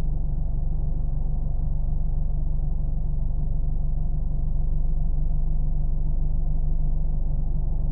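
Car engine humming steadily with a low, muffled rumble. It stays even throughout, with no rising or falling in pitch.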